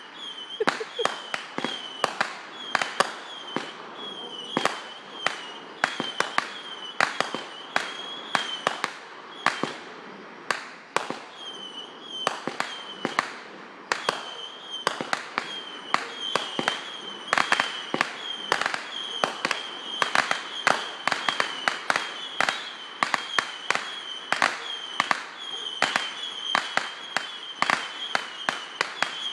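Fireworks going off in a rapid, continuous barrage of sharp bangs and crackles, several a second, with a short high tone that recurs between the reports.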